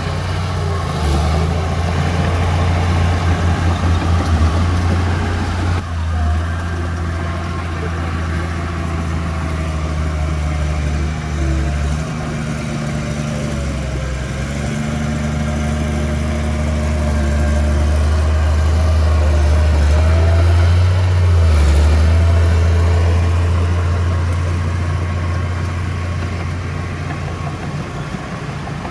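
Diesel engine of earthmoving machinery running steadily, its load and pitch shifting as it works, with a thin wavering whine above the engine note.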